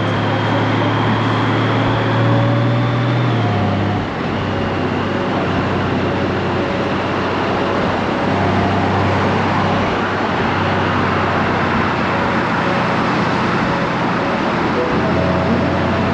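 Honda Gold Wing DCT's flat-six engine running on the road, with steady wind and road noise over it. The engine note drops in pitch about four seconds in and then runs steady again.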